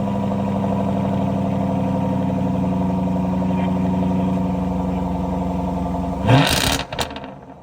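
Jaguar F-Type Project 7's 5-litre supercharged V8 idling steadily and high just after starting. About six seconds in, it gets a quick throttle blip that rises and falls, and then the sound drops much quieter near the end.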